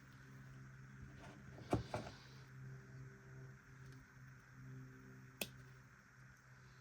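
A few small, sharp clicks over a faint steady low hum: two close together about two seconds in and a single louder one about five and a half seconds in, the sort of clicks made by handling small parts and tools.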